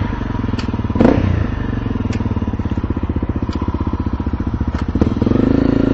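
Motorcycle engine running at low revs with an even, rapid pulsing beat, with a short knock about a second in.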